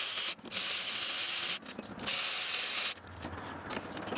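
Pressurised spray hissing in sharp on-off bursts: one stops a moment in, a second runs about a second, and a third of about a second starts a little after halfway.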